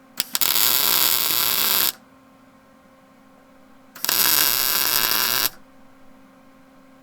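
Two tack welds with a small 110-volt welder: the arc strikes with a couple of quick crackles, then runs with a steady hiss-crackle for about a second and a half, stops, and a second tack runs about a second and a half more. The tacks hold a hitch receiver in place on a truck frame.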